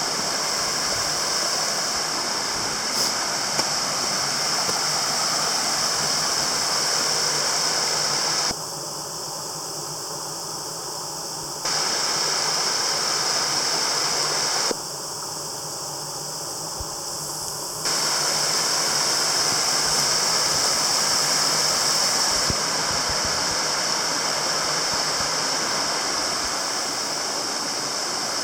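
Water rushing steadily over a creek waterfall, a constant hiss. Twice near the middle it switches abruptly to a quieter, duller rush for about three seconds.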